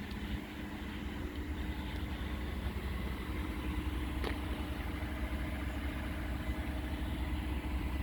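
A vehicle engine idling steadily, with a short click about four seconds in.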